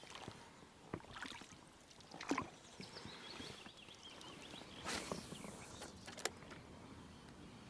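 Handling sounds in a small boat on calm water: a handful of short knocks and swishes spread through the quiet, with faint chirping in the middle.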